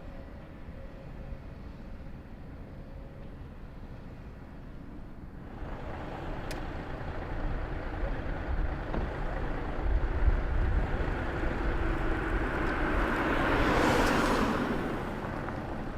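A car approaching and driving past, its engine and tyre noise building from about five seconds in, peaking near the end and then easing off. Wind buffets the microphone.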